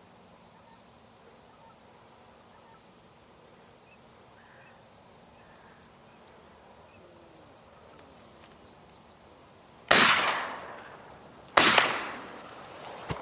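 Two shotgun shots, from a Browning GTS over-and-under, about a second and a half apart near the end, each with a short ringing tail, after a long stretch of quiet outdoor background with a few faint bird chirps.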